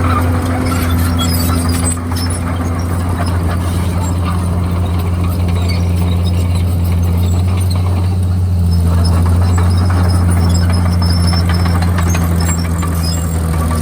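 Komatsu D51PX crawler bulldozer's diesel engine running steadily under load, with scattered high squeaks and clinks from the machine. The engine note shifts slightly about nine seconds in.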